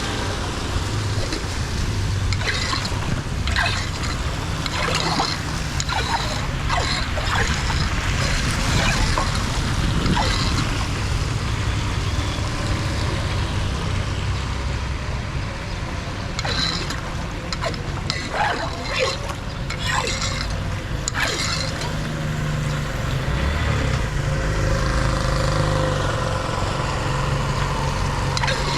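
Floodwater running into a cleared street drain, with a steady low rush broken by many short splashes and knocks.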